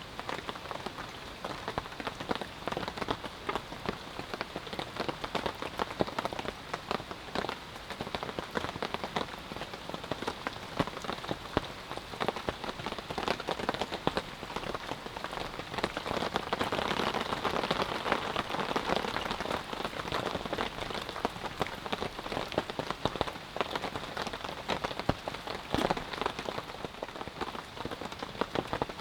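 Steady rain with many individual drops pattering, a little heavier for a few seconds around the middle.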